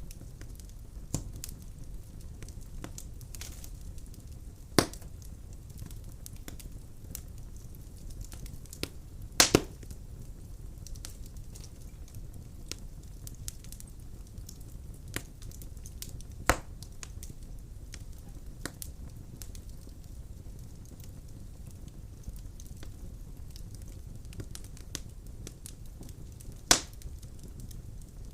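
Wood burning in a fireplace: a steady low rumble of flames with scattered crackles, and a few loud sharp pops, including a quick double pop about a third of the way in.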